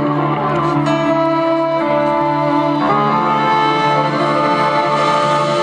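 Live band playing an instrumental passage before the vocals come in: held chords that shift about every second over a steady low pulse of about two beats a second.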